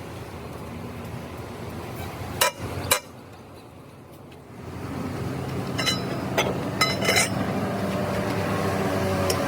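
Metal parts and tools clinking and tapping against each other, with a ringing note, over a steady machine hum. Two sharp clicks come about two and a half seconds in, and a run of clinks starts after a quieter gap about halfway through.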